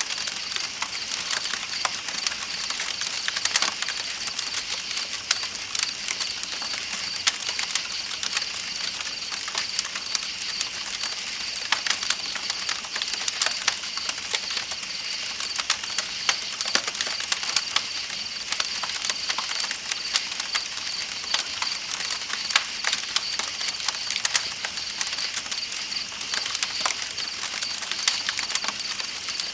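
Campfire crackling with irregular sharp pops over the steady rush of a flowing river, and night insects giving a continuous high-pitched drone.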